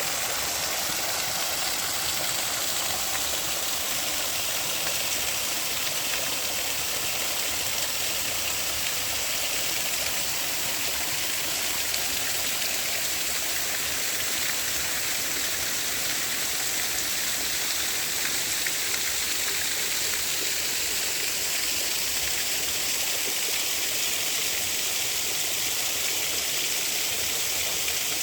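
Creek water running over small waterfalls and cascades: a steady, even rush.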